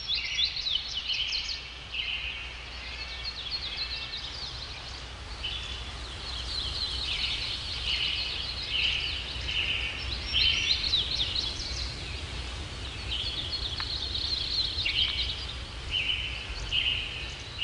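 Birds chirping: many short, rapidly repeated high calls, over a steady low background rumble.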